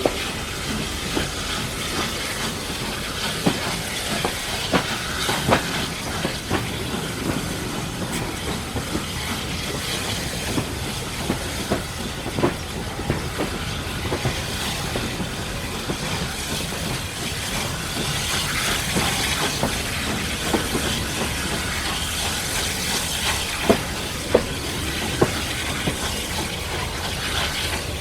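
Steam-hauled heritage train on the move behind Caledonian Railway 0-4-4T tank engine No. 419: steady running noise and hiss, with irregular sharp clicks and knocks from the wheels and rail joints, a few louder ones near the end.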